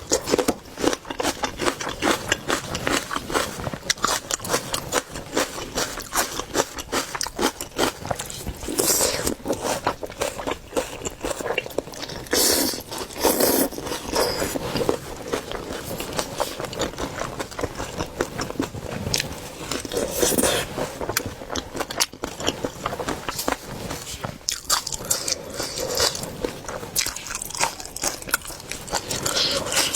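Close-miked biting and chewing of cooked seafood, with wet clicks and crunches coming in irregular runs and a few louder crunchy bites.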